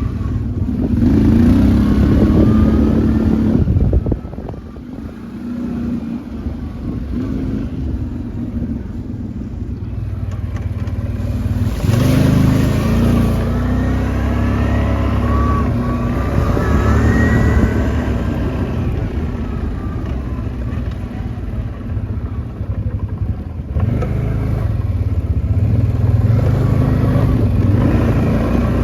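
Quad bike (ATV) engines running and revving while riding. The pitch rises and falls with the throttle, and the sound drops away suddenly about four seconds in, then builds again.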